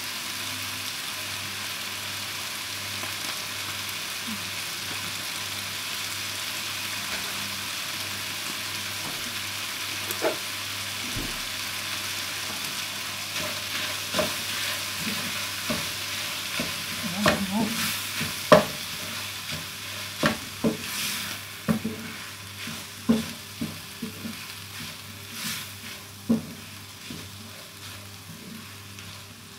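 Vegetables sizzling as they sauté in butter in a pan, with a spatula stirring and knocking against the pan. The sizzle is steady at first and dies down in the second half, while the clicks and scrapes of the utensil come more often.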